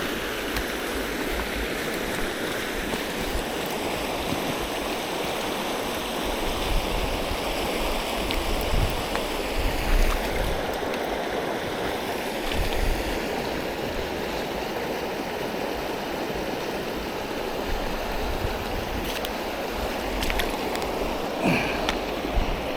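Steady rush of river water, an even wash of flowing current with no letup, with occasional low rumbles underneath.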